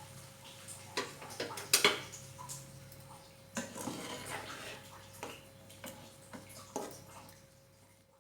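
Irregular clicks and knocks of kitchen utensils and dishes being handled, the loudest just before two seconds in, over a steady low hum.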